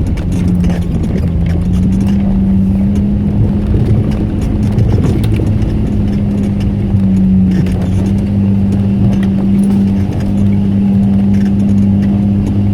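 Off-road 4x4 engine running steadily under load on a slippery muddy hill climb, rising a little in pitch in the first couple of seconds, with scattered knocks and clicks from the vehicle working over the ground.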